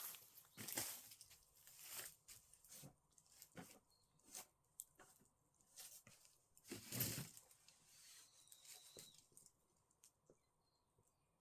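Faint, irregular crackles and rustling bursts, the loudest about seven seconds in, with a brief thin whistle-like tone a little after.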